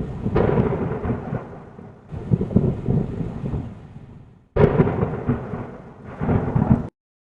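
Thunder rolling over heavy rain: several peals that swell and fade, with a sudden sharp crack about four and a half seconds in, before the sound cuts off abruptly near the end.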